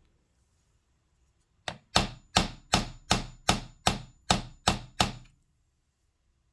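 About ten sharp taps in quick succession, roughly three a second: a hammer tapping on a screwdriver held on a sewing machine spindle to drive the spindle down into place.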